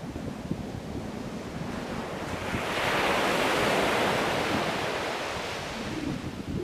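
Sea waves on a shore: a wave swells, breaks about three seconds in and washes out again, over a steady low rumble of surf.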